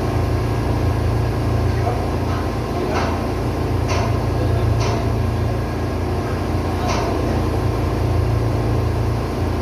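Ship's diesel engine running steadily with a loud, even hum, with a few short clicks or knocks over it.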